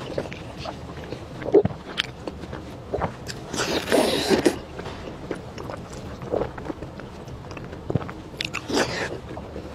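A person eating close to the microphone: bites and chewing, with scattered crunchy clicks and a louder stretch of noisy eating sounds about four seconds in.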